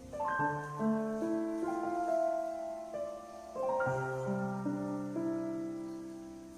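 Soft background piano music: slow chords and single notes held and left to ring, with a new phrase starting about halfway through and dying away near the end.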